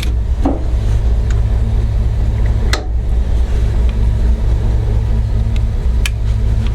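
Alvis Saladin's Rolls-Royce B80 straight-eight petrol engine idling steadily, left running to charge and power a slave lead, with a few sharp clicks over it.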